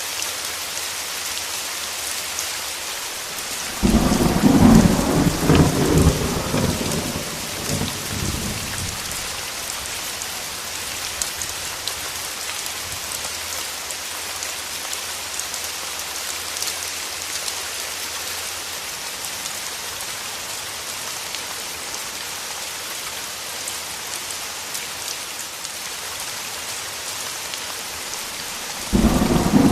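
Steady rain falling, with a clap of thunder that breaks in suddenly about four seconds in and rumbles away over about five seconds. Another thunderclap starts suddenly near the end.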